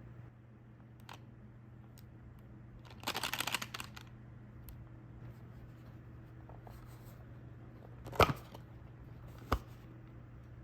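Snack packaging being handled: a short, dense rustling burst of paper or plastic about three seconds in, then two sharp clicks later on, over a low steady hum.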